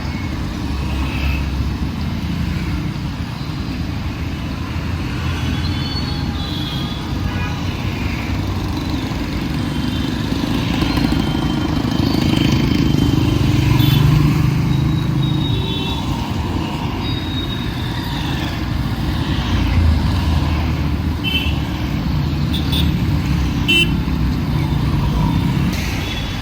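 Busy city road traffic: cars, motorcycles and trucks running past in a steady rumble, with short horn toots now and then and a louder passing vehicle about halfway through.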